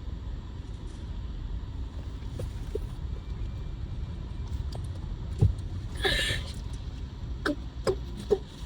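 Car cabin noise while driving: a steady low road and engine rumble, with a single knock about halfway through and a short noisy burst soon after.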